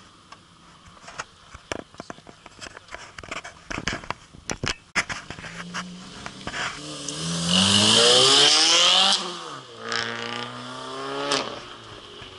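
Turbocharged Subaru WRX flat-four accelerating hard, its engine pitch climbing through one gear with a loud hiss at the top, dropping at the shift, then climbing again. Sharp scattered clicks come before it in the first few seconds.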